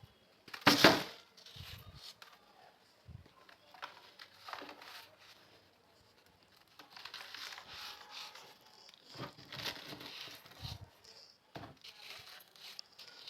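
Crunchy salt being crushed: a run of irregular crunches and crackles, the loudest about a second in.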